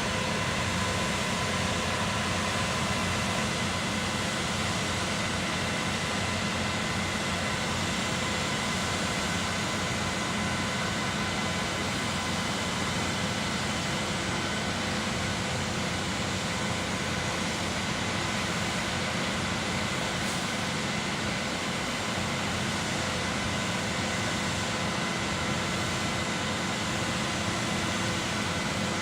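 Concrete pump machinery running steadily: a continuous mechanical hum with a few steady tones, no breaks or pauses.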